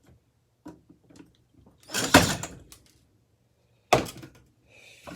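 Metal knocks and clatter of a flathead screwdriver working at a stripped screw in a ceiling fan: a few light clicks, a louder clattering knock about two seconds in, and another sharp knock near the end.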